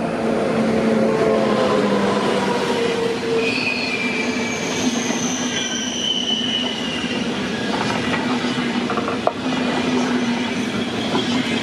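ICE 1 high-speed train rolling past along the platform: a steady rumble of wheels on rail with a low hum, and high squealing tones from the wheels that come and go. One sharp click about nine seconds in.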